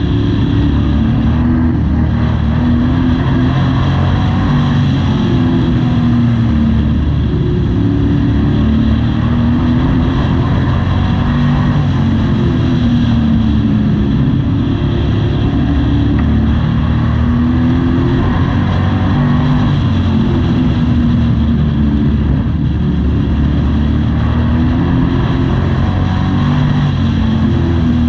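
Racing pickup truck's engine at full race pace heard from inside the cab, its pitch rising and falling over and over as the driver gets on and off the throttle through the turns of a short oval.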